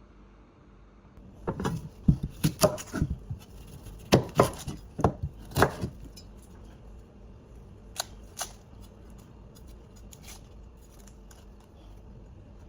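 A quick run of sharp clicks and clatters from objects being handled, bunched together over a few seconds and followed by a few single clicks.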